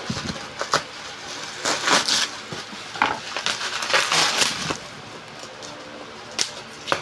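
Packaging being handled and opened: irregular rustling and crinkling, with a couple of sharp clicks near the end.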